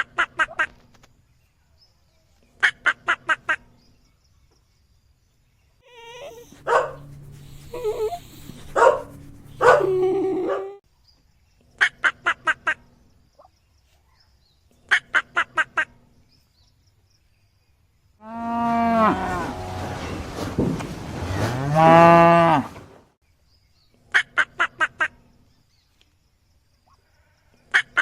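A cow mooing once, a long call of several seconds after the middle. Before and around it come short bursts of about five quick, sharp sounds repeating every few seconds, and a mixed stretch of other animal calls a quarter of the way in.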